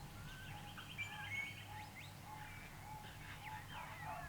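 Small birds chirping and calling, many short overlapping calls, with a fast trill about a second in, faint over a low steady hum.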